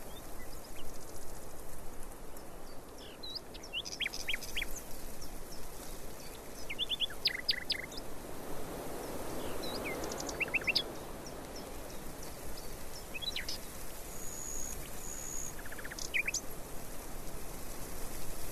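Birds chirping: scattered short calls and quick falling notes, some in rapid runs of three or four, with a brief high whistled note near the end, over a steady outdoor noise background that swells briefly about halfway through.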